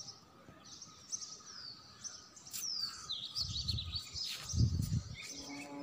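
Birds chirping outdoors: a run of short, high, falling chirps, with two brief low rumbles past the middle.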